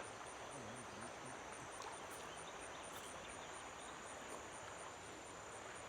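Faint outdoor ambience with an insect, cricket-like, chirping high and evenly several times a second over a soft steady hiss.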